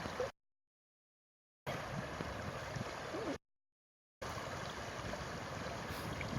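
Steady rush of flowing river water, cut off twice by abrupt total dropouts in the audio.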